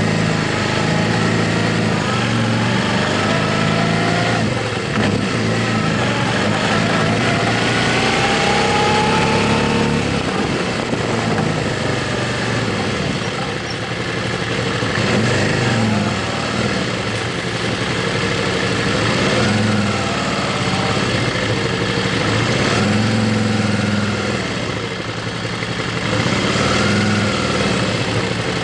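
Motorcycle engine running on the move, its pitch stepping and gliding up and down with throttle and gear changes over a steady rush of noise.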